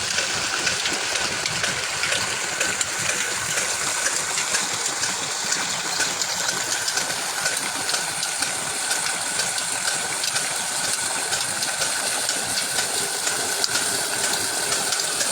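Old farm water-pump engine running steadily, with water gushing from the pump.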